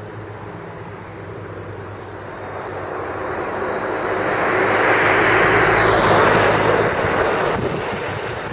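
Nissan Primera P10 1.6 four-cylinder engine idling with a steady low exhaust hum, while a louder vehicle noise swells to a peak in the middle and then fades, like a car passing by.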